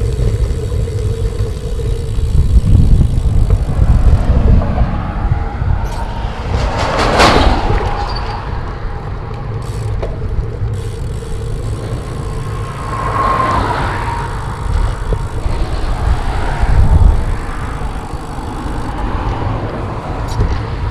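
Wind buffeting the microphone of a cyclist riding into gusts, with traffic passing on the road alongside; one vehicle passes loudest about seven seconds in, another around thirteen seconds.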